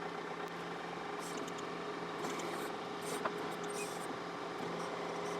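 John Deere 4052R compact tractor's diesel engine running steadily at a constant pitch.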